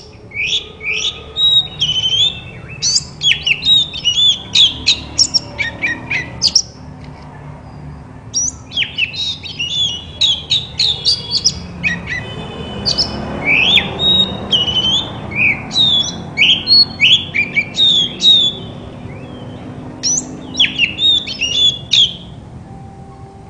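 Oriental magpie-robin (kacer) in full song: fast runs of varied whistles, chirps and harsh notes, with a short break about six seconds in and another near eighteen seconds.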